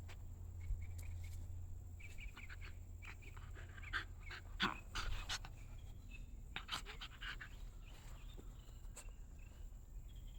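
Dog panting in quick, uneven runs of breaths, loudest about halfway through.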